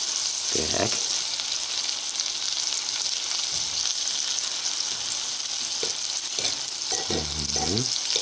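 Puffball mushrooms sizzling steadily as they fry in butter in a frying pan, stirred and turned with a fork.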